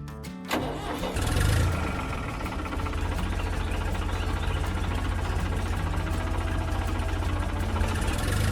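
A large engine, the harvester's, starting up: it catches and swells about a second in, then runs steadily with a fast, even low throb.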